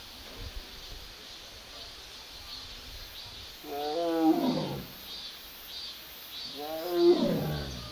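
Young Amur (Korean) tiger giving two drawn-out 'a-ung' calls about three seconds apart, each sliding down in pitch at its end: a contact call for a missing companion. Cicadas pulse steadily behind.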